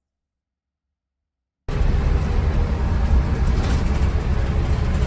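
Silence, then about a second and a half in, the engine and road noise inside a moving bus cuts in suddenly and runs on as a steady deep rumble.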